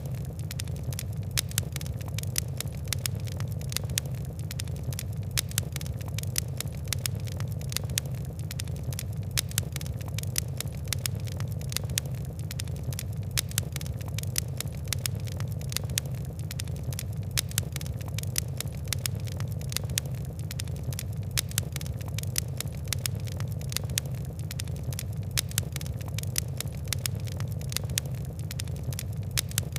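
Fire crackling steadily: a dense run of small sharp pops and ticks over a low, even rumble of flame.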